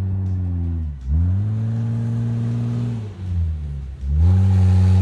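4x4 SUV engine working hard through soft sand dunes. It eases off about a second in and again around three seconds, each time revving back up and holding a steady high drone.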